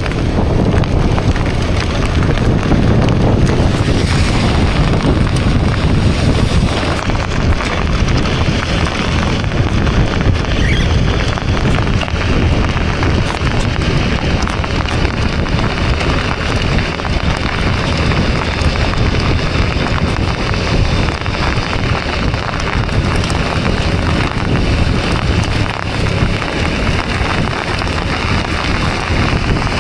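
Heavy rain falling, a steady dense hiss of raindrops with a low rumble beneath it.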